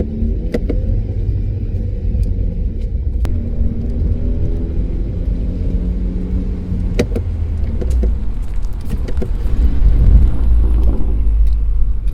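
BMW F30's turbocharged N20 four-cylinder engine, fitted with an MST intake and inlet, running with a steady low rumble that grows louder near the end, with a few light clicks.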